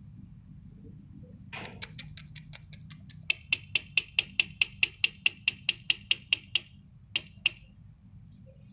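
A caged bird giving a rapid series of sharp chip calls, about five a second, louder from about three seconds in, then two more after a short pause.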